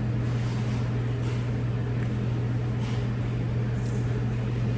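A steady low hum at an even level, with a few faint short clicks over it.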